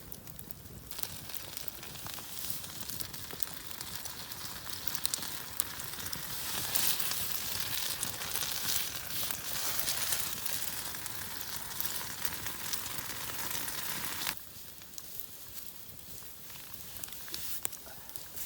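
Potatoes and red onions sizzling in oil in a frying pan, with fine crackles. The sizzle drops abruptly to a quieter hiss near the end.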